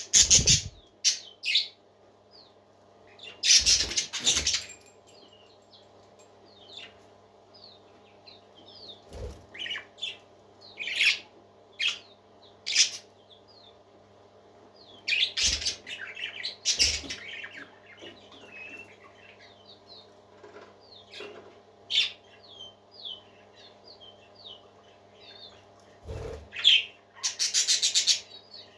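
Parakeets chirping and chattering in many short, high, rising calls, broken by a few louder noisy bursts about 4 s in, around 16 s and near the end, over a faint steady hum.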